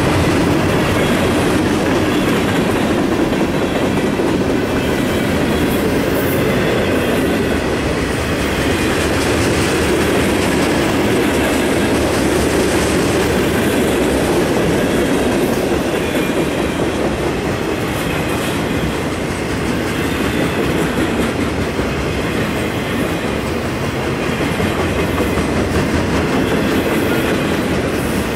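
Freight cars of a passing train rolling by close at hand: a steady rumble of steel wheels on the rails with occasional faint clicks.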